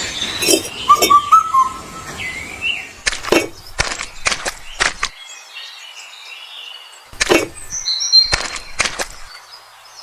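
Birds chirping, with irregular sharp knocks or clicks in between. The knocks are the loudest sounds, clustered in the first half and again near the end.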